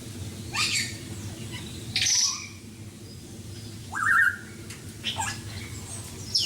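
Birds calling in short, sharp chirps and squawks, one about every second or two, over a steady low hum.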